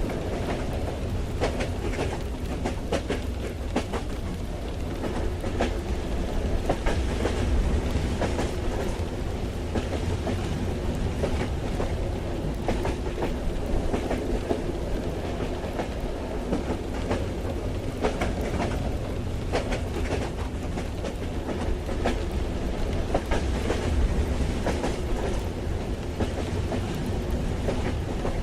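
Train ride ambience: a steady low rumble of a moving railway carriage, with irregular clacks and taps from the wheels running over the track.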